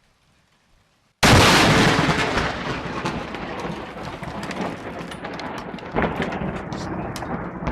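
Lightning striking very close: a sudden loud thunderclap about a second in, followed by crackling and a rumble that slowly fades.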